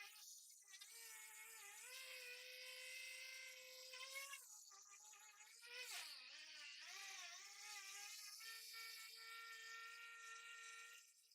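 A small electric motor whining steadily, its pitch sliding and shifting up and down every second or two, with brief dropouts about half a second in and near the end.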